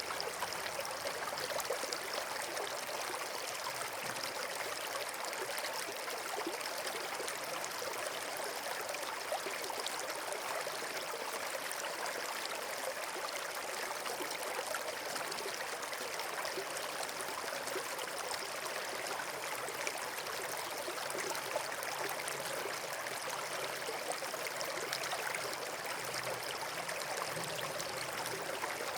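Flowing water rushing and trickling steadily, an even wash of sound with no distinct pops.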